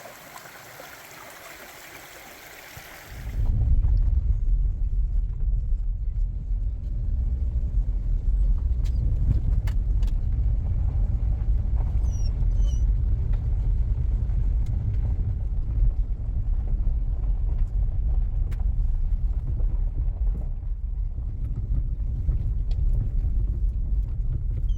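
Creek water flowing, then about three seconds in a cut to a car driving on a rough dirt road: a loud, steady low road rumble with scattered small knocks and rattles.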